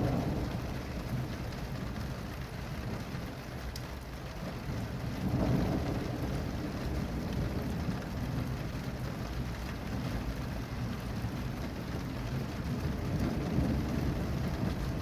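Steady rain falling, with low rolls of thunder: one rumble fading at the start, another swelling about five seconds in, and a third building near the end.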